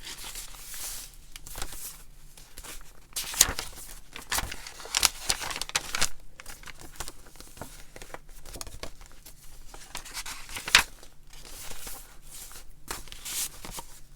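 Paper rustling and crinkling as the pages of a handmade junk journal and the items in its pocket are handled, with several sharp snaps of paper or card, the loudest about three and a half seconds in and near eleven seconds in.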